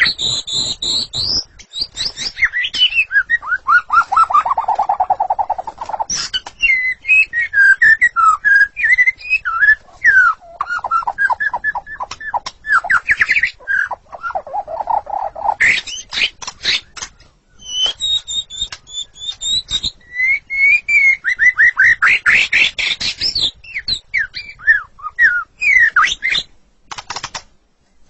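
White-rumped shama singing a long, varied song: fast series of repeated notes, gliding whistles and sharp clicking notes, with short pauses between phrases.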